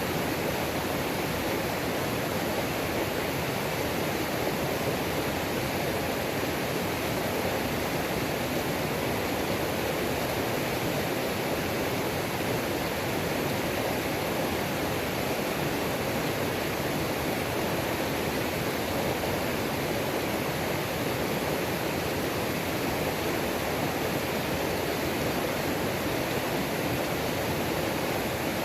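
Mountain-creek waterfall: water falling and rushing over rocks in a steady, unbroken roar.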